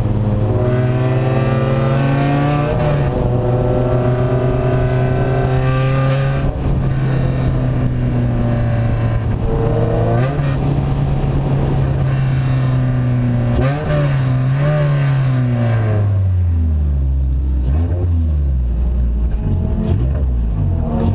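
Car engine with an open, unsilenced exhaust, driven under load with the revs rising and holding, then dropping about three-quarters of the way through to a low, deep rumble as it eases off.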